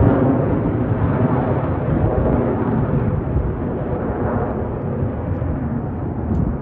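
Jet engine noise from Blue Angels F/A-18 Super Hornets flying past, a deep rumbling roar that is loudest at the start and slowly fades away.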